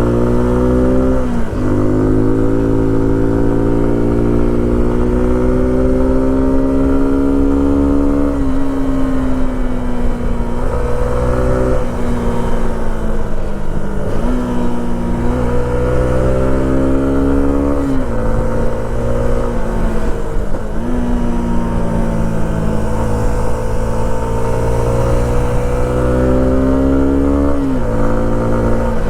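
Suzuki V-Strom SX 250's single-cylinder engine under way, its pitch climbing steadily as it pulls and then falling off sharply at each gear change or throttle lift, about six times.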